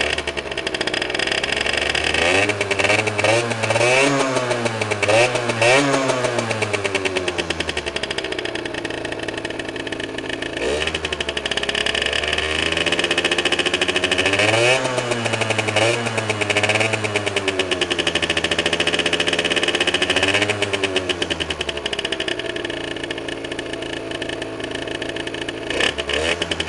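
Derbi Senda's small two-stroke engine, breathing through an aftermarket Arrow exhaust, revved again and again: a few quick blips, then a longer rev held high, more revs, and back down to a lower idle near the end.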